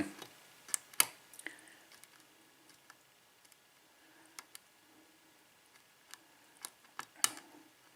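Faint, scattered clicks and ticks of a lock pick and tension wrench working the pins inside a 6-pin Lockwood padlock during single-pin picking, a few sharper clicks about a second in and near the end as pins are pushed and set.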